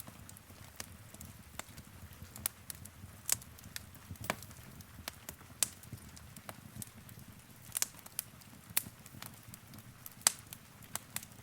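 Wood fire crackling in a fireplace: irregular sharp pops and snaps over a low steady rumble, the loudest pop about ten seconds in.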